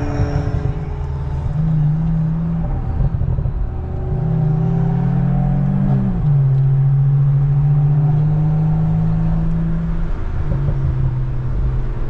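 Tuned Toyota GR Supra (A90) B58 3.0-litre turbocharged inline-six with a catless downpipe and aftermarket exhaust, pulling under acceleration. Its pitch climbs, drops sharply about six seconds in as it shifts gear, then holds steady.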